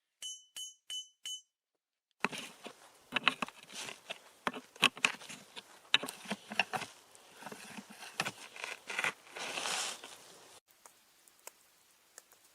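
A metal utensil clinks four times in quick succession, then several seconds of clattering and clinking of camp cookware, with some sharp knocks, before it settles to faint scattered ticking.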